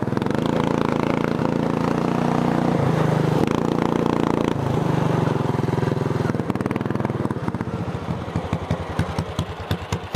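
Racing lawn tractor engine running at high revs under load, its pitch shifting a few times. About six seconds in it throttles back and slows to a lumpy idle, each firing stroke heard separately.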